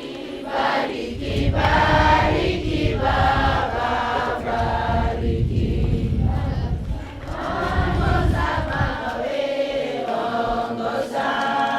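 A group of voices singing together in chorus, in phrases with brief pauses between them.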